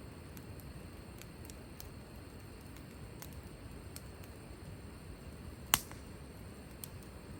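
Wood fire crackling: scattered sharp pops from the burning wood, with one loud pop near the end, over a low steady rumble.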